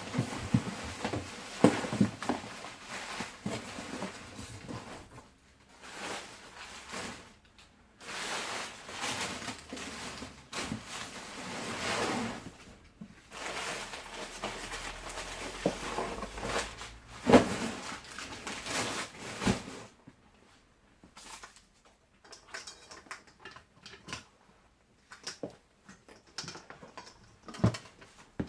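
Unpacking a vintage Hoover Constellation vacuum cleaner: packaging rustles in long stretches, with sharp knocks and clunks as the machine is handled, and lighter scattered clicks near the end.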